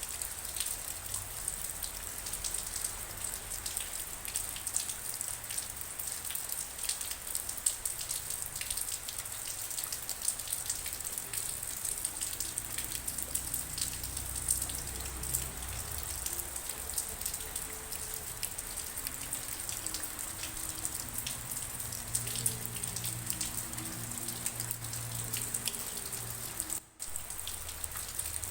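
Steady rain falling, a dense patter of many fine drops hitting a surface. The sound cuts out for an instant near the end.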